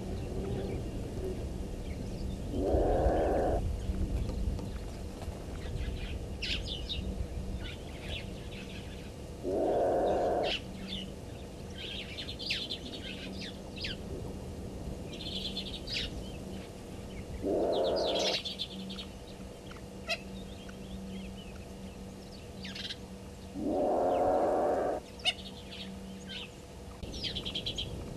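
An unidentified animal calling: a loud call of about a second, repeated four times roughly seven seconds apart. Small birds chirp between the calls.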